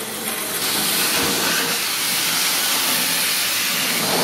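Car wash pressure-washer wand spraying a high-pressure jet of water onto the leaf blower's greasy frame and wheels: a steady, loud hiss that strengthens about half a second in.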